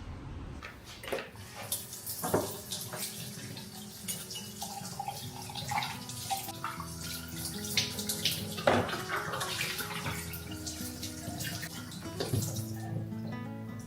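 Water running from a tap into a sink, with scattered knocks and clinks of things handled under it. The water stops about a second before the end. Faint steady tones of soft music run underneath.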